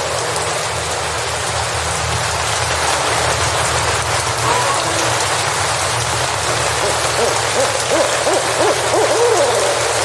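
Steady rain falling in a forest, with a cluster of short calls that rise and fall in pitch in the last few seconds.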